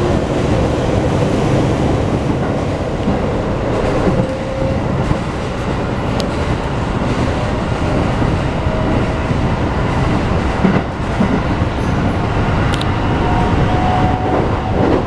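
Keikyu New 1000 series electric train with Mitsubishi full-SiC VVVF inverter, heard from inside the car while running: a steady rumble of wheels on rail with a few clicks, and a faint motor whine rising slowly in pitch as the train picks up speed.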